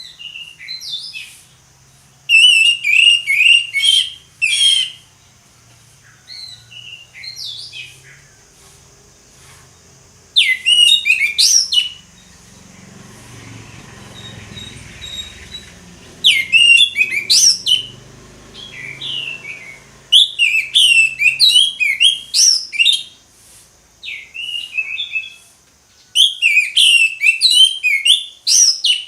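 Orange-headed thrush singing loud phrases of rapid, varied whistled notes, each phrase a second or three long, with short pauses between them.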